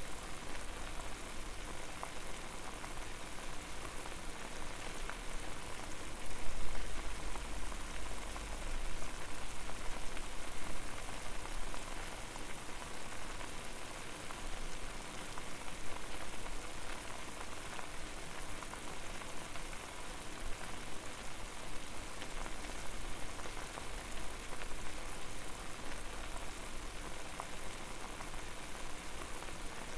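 Water boiling hard in a pot over a fire: a steady bubbling hiss dense with tiny pops, with a low rumble that swells briefly a few seconds in.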